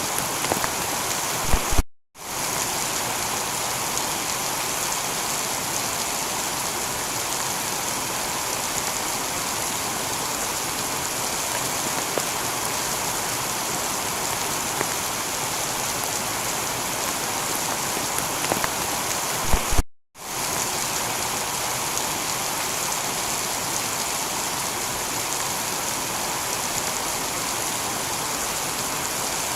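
Heavy rain falling steadily on a tiled roof, an even hiss with scattered drop ticks. About two seconds in and again about twenty seconds in, a short knock is followed by a split-second cut to silence before the rain resumes.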